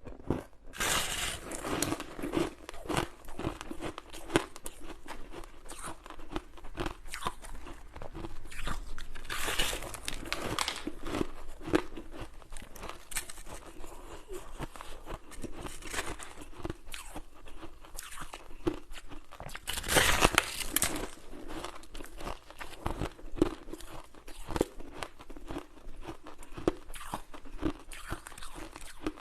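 Ice being bitten and chewed close up: continuous crunching and crackling, with louder bites about a second in, around ten seconds in and around twenty seconds in.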